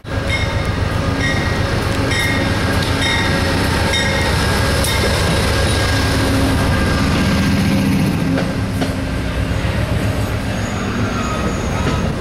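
Amtrak Genesis diesel locomotive passing close by at the head of a train of coaches, its engine running loud, then the coaches rolling past with steady wheel-and-rail rumble and faint high-pitched wheel squeal. The sound starts abruptly at full loudness.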